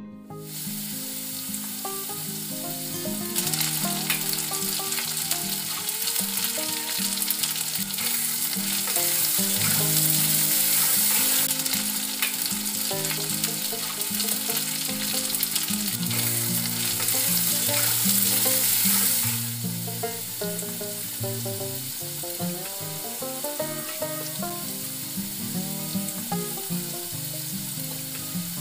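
Chicken, onion and tomato masala sizzling in a metal kadhai while a metal spatula stirs it. The sizzle grows louder from about a third of the way in and eases off after about two thirds. Guitar music plays underneath.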